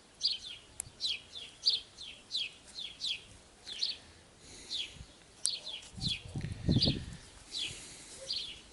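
A small bird chirping over and over, short high chirps that fall in pitch, about one and a half a second. There is a brief low rattle about six seconds in.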